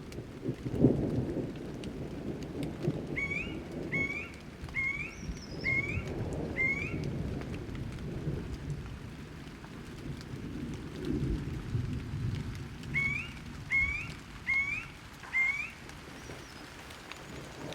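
Thunder rumbling low and rolling, with rain, in a thunderstorm. Over it a bird calls a run of short rising whistled notes, five in a row and then four more later.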